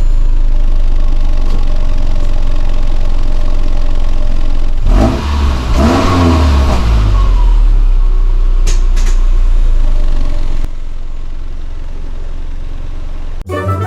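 Subaru Forester's turbocharged flat-four boxer engine idling through its exhaust, blipped once about five seconds in so the note rises and falls over about two seconds before settling back to idle. A chime sounds right at the end.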